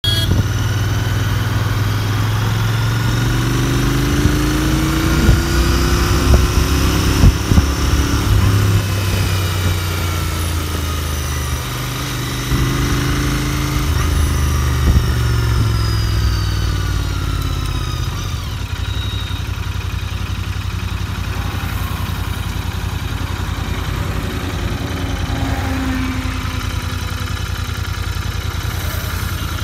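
Royal Enfield Interceptor 650's parallel-twin engine heard from the saddle on a ride, its note rising and falling with throttle and gear changes. From about 18 seconds in it settles to a steady lower note.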